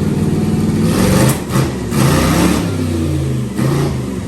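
Twin-turbo LS V8 engine with a blow-through carburettor being revved, its pitch rising and dropping several times, with short sharp rushes of sound in the first couple of seconds.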